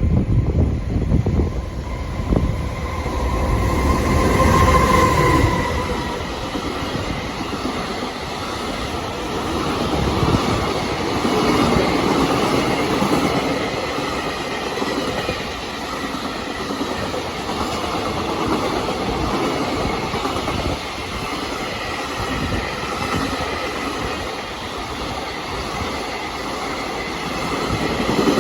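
A train passing through a station: a long, continuous rumble of wheels and cars on the rails, loudest in the first few seconds, with a brief steady whine about four seconds in.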